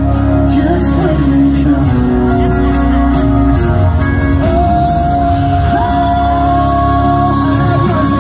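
Live country band and vocals played loud through an arena sound system, with long held sung notes, heard with the echo of a large hall.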